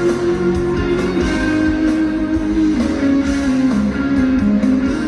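Live band playing a song's instrumental introduction, led by guitar over a steady beat.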